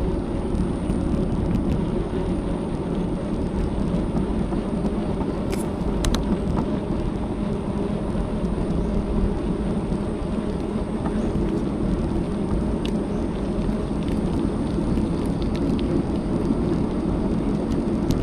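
Steady wind rush and road rumble on a bicycle-mounted action camera while riding, with a couple of faint clicks about six seconds in.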